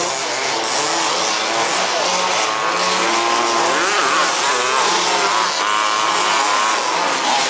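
Several 1/5-scale RC buggies' small two-stroke petrol engines racing together. Their buzzing pitches overlap, rising and falling as they rev up and ease off.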